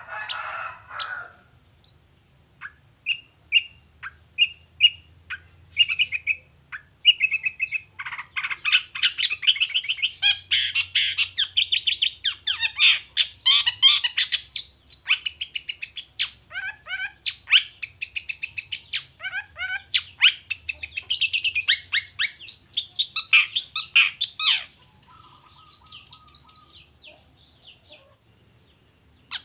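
Long-tailed shrike (cendet) singing: a harsh note at the start, then a string of short repeated high notes, breaking into a long, fast chattering song of varied notes. It falls silent a couple of seconds before the end.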